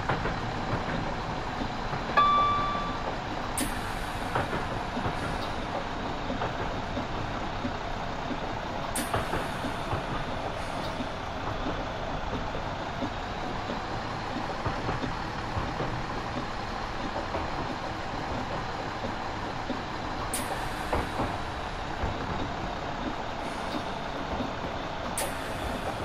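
Class 172 diesel multiple unit running, a steady even rumble and hiss with a few faint clicks. A single short beep sounds about two seconds in.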